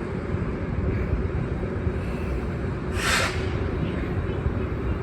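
MARC MP36 diesel locomotive and commuter train running by with a steady low rumble. A short hiss of air comes about three seconds in.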